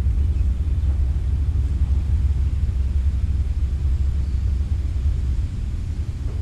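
Steady low rumble with a faint even hiss above it.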